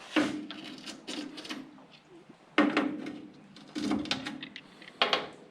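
Metal hand tools clanking while being sorted through, most likely wrenches or sockets being picked out for size. There are about four sharp clanks, each with a short metallic ring.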